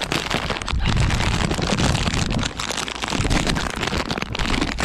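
Strong wind buffeting the microphone, a loud, uneven rumbling rush.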